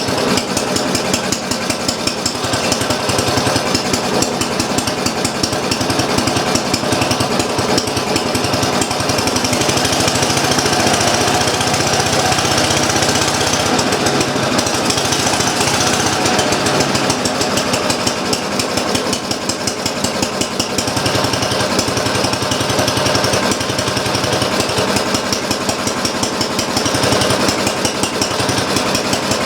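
Briggs & Stratton Model Q single-cylinder engine running steadily with a rapid, even beat of firing strokes. The engine is running rich and is not yet tuned in.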